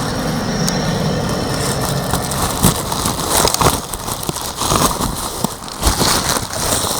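Packaging being pulled open by hand: crinkling, crackling wrap with many small rustles and clicks as a parts package is unwrapped.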